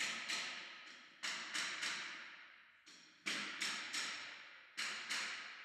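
A series of sharp taps in quick groups of two to four, about three a second, each dying away quickly.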